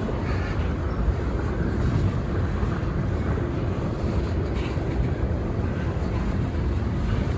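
Freight train rolling past with a steady low rumble, with wind buffeting the microphone.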